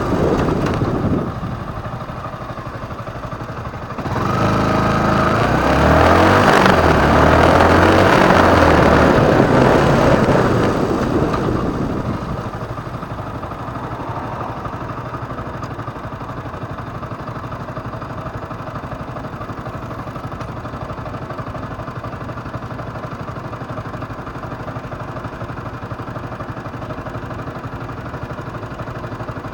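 Motorcycle engine running, then pulling away about four seconds in, its pitch climbing and stepping as it goes up through the gears. It eases off after about twelve seconds to a steady, quieter running sound.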